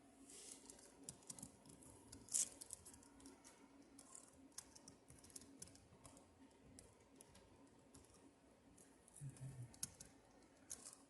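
Near silence: room tone with faint, irregular clicks and taps over a steady low hum.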